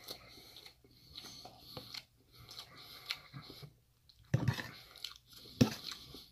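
Close-up chewing of a mouthful of tofu and cauliflower curry, soft irregular mouth sounds, with two louder knocks in the second half.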